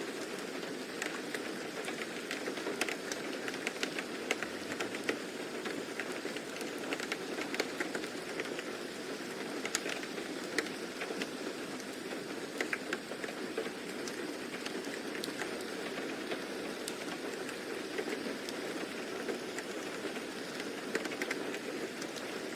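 Steady rain falling, with many scattered drop clicks over an even hiss.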